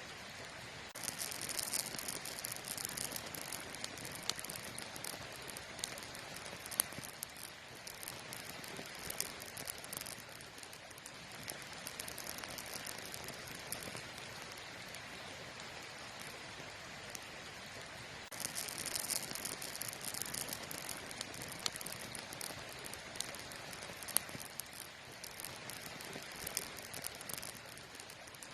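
Campfire burning: a steady crackle with scattered sharp pops, and two stretches of louder high hiss, one about a second in and another about two-thirds of the way through.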